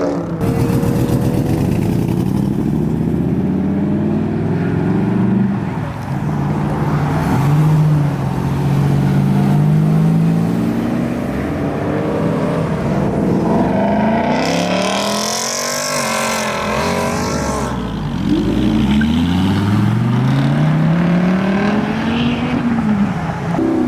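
Performance car engines revving hard and accelerating away. The engine note climbs and falls several times and is held high for a few seconds, with a burst of harsh rushing noise about midway.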